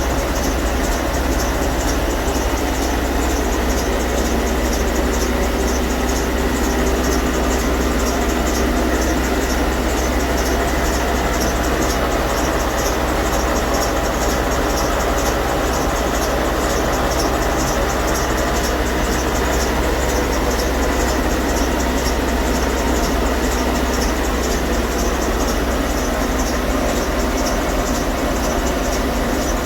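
Boat engine running steadily under way, a loud, even drone with a constant low hum and a rushing hiss over it.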